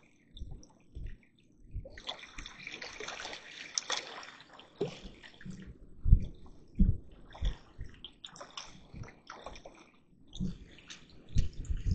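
Water splashing and sloshing, with irregular knocks and thumps.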